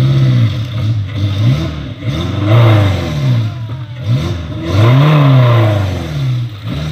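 Off-road 4x4's engine revved hard in repeated surges as it labours through a deep mud hole, the pitch climbing and dropping with each stab of throttle; the longest, loudest revs come about two and a half and five seconds in.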